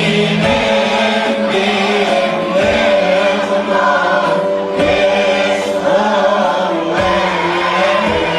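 Church choir singing a Christmas hymn medley, voices in pitch-shifting phrases over a steady sustained low accompaniment.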